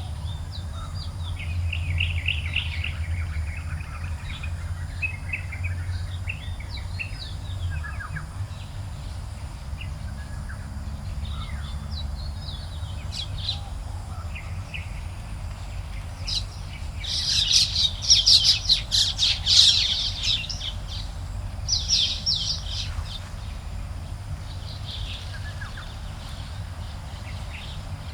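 Several garden birds chirping and calling in short repeated phrases, with a burst of rapid, loud chirping about two-thirds of the way through, over a steady low background rumble.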